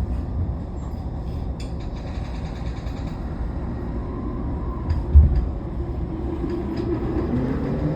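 Cabin sound of a Toei 10-300 series train with a Mitsubishi IGBT-VVVF inverter: a steady low rumble with a single thump about five seconds in, then near the end the inverter whine sets in and rises in pitch as the train starts to accelerate.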